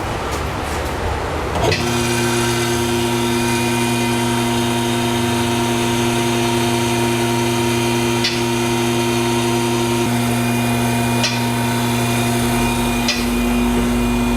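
Electric motor and hydraulic pump of a vehicle lift running steadily with a low mains-motor hum as the lift raises the car, starting about two seconds in. A few sharp clicks sound over it in the second half.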